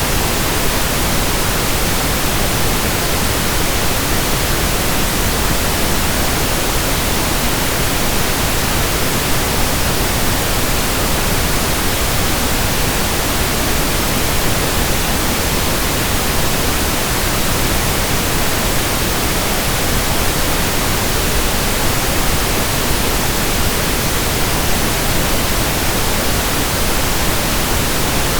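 Steady pink noise: an even, unchanging hiss across the whole range, with no rhythm or breaks.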